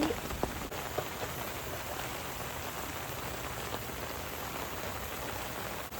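Steady rain falling and pattering on a tarp overhead.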